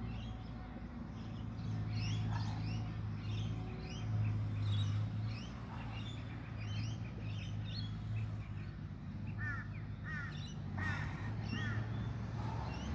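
Birds calling outdoors: short chirps scattered throughout, and a louder run of repeated calls near the end, over a steady low hum.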